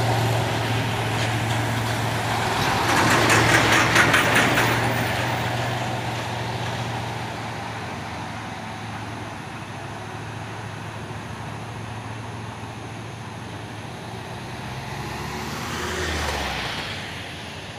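Heavy diesel truck engine labouring up a steep incline as it passes, with a pulsing clatter, loudest about four seconds in and then fading away. A second vehicle rumbles past near the end.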